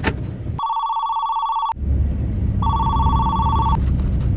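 Telephone ringing with an old-style trilling bell ring, two rings about a second long each, with a low steady rumble underneath.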